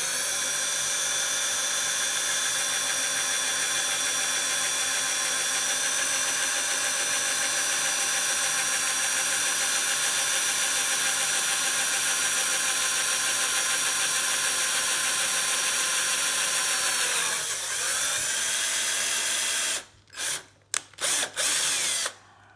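Electric drill running steadily while boring a hole in a quick-release skewer lever, its motor whine holding one pitch. About seventeen seconds in the pitch dips briefly, then the drill stops and is blipped on and off a few times.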